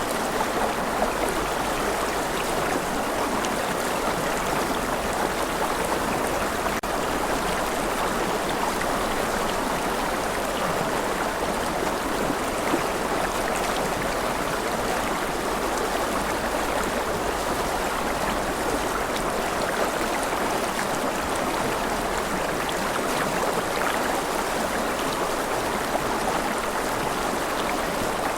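Steady rain: an even, unbroken hiss of falling water at a constant level.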